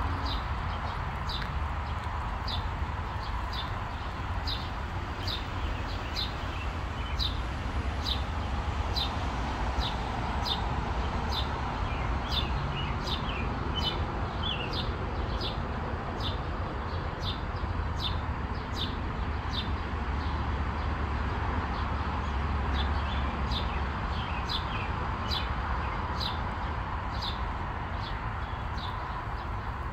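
A bird repeating one short, high chirp over and over at an even pace, about one and a half times a second, over a low steady rumble.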